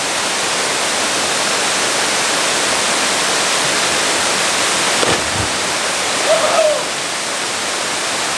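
Steady rush of a waterfall pouring into its pool, with a short high voice call about six and a half seconds in.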